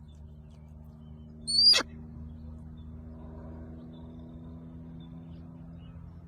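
A bird gives a single short, shrill, loud call about a second and a half in, over a steady low hum.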